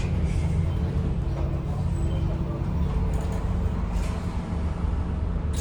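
Scania OmniCity bus heard from inside the cabin: a steady low diesel engine rumble with a faint hum and a few light rattles.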